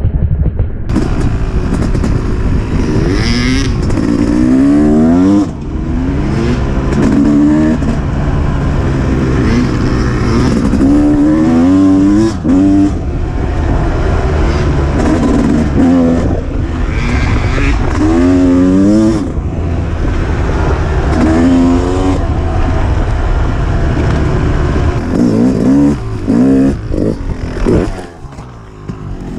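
Two-stroke dirt bike engine being ridden hard, its pitch rising in sweep after sweep as the throttle is opened, with brief drops between them. It eases off near the end.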